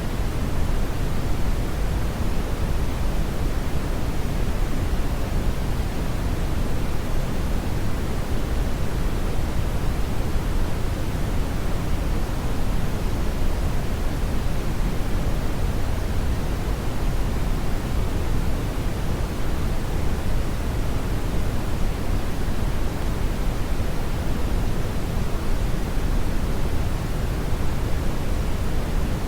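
Brown noise: a steady, unchanging rushing hiss, heaviest in the low end and dull at the top, with no events or changes.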